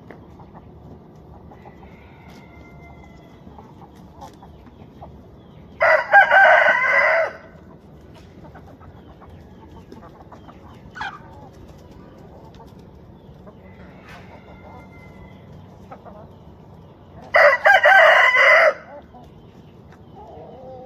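A rooster crowing twice, about eleven seconds apart, with hens clucking softly in between.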